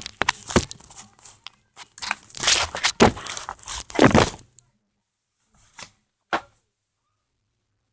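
Cardboard shipping box being torn open, tape and flaps ripping in a run of rasping tears for about four and a half seconds, followed by two short scrapes.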